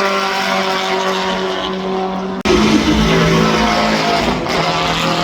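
Racing car engines running hard at held revs, a steady engine note; an abrupt cut about two and a half seconds in switches to another engine note.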